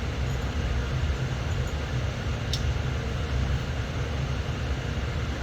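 Steady low mechanical rumble, with one light click about two and a half seconds in.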